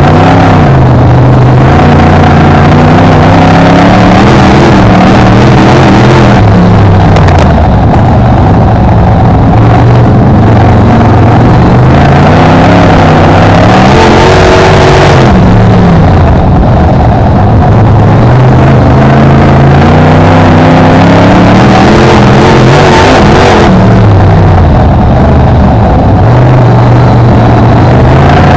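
BriscA F1 stock car's V8 engine, heard on board, very loud, revving up on the straights and dropping off into the bends again and again as it laps the oval.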